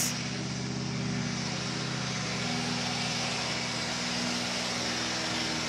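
Hyundai i20 Coupe WRC rally car's turbocharged 1.6-litre four-cylinder engine idling steadily at the stage finish, heard from inside the cockpit.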